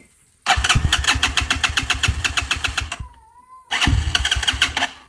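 Enduro motorcycle engine being cranked in two bursts, a rapid even chugging of about ten beats a second. The first burst lasts about two and a half seconds and the second about a second, and each cuts off without the engine catching.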